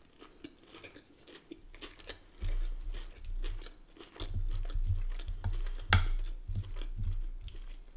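Close-up chewing and crunching of a mouthful of salad with lettuce and cucumber, many short crisp crunches, growing louder about two and a half seconds in.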